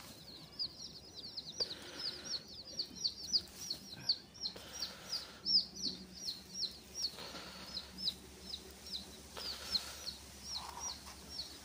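Bird chirping: a long run of short, high peeps, about three or four a second, with a few brief pauses.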